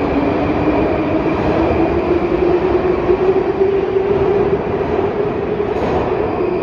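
St Petersburg metro 'Baltiets' train pulling into a station: loud running rumble with the electric traction drive whining, its pitch rising slightly and then starting to drop as the train slows, over a faint high steady tone.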